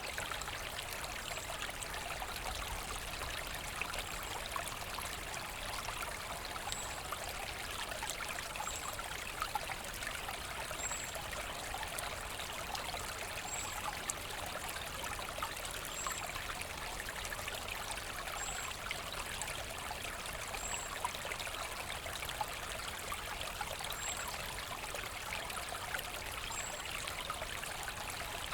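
Forest brook babbling steadily over stones, a continuous rush of water. A faint, short, high peep repeats about every two seconds.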